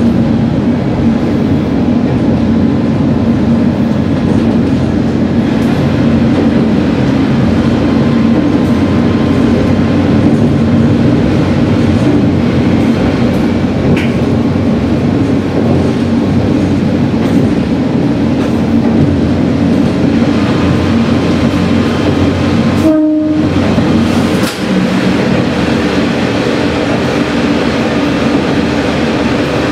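Sanriku Railway diesel railcar running along the line: a steady engine drone and wheel-on-rail rumble with clicks from the rail joints. A short high squeal about halfway through, and the sound briefly cuts out about two-thirds of the way through.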